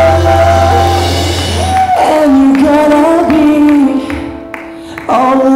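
Live band and singers performing a song: a held chord fades out about a second in, then sung notes over a soft backing, dropping quieter before the singing comes back in loudly near the end.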